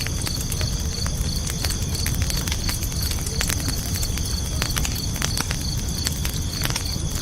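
Campfire crackling with irregular sharp pops over a low steady rumble, layered with crickets chirping in a steady rhythm of about two chirps a second and a continuous high insect trill.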